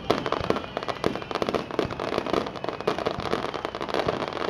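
Aerial fireworks going off in rapid succession: a dense, continuous crackle of many small bangs and pops.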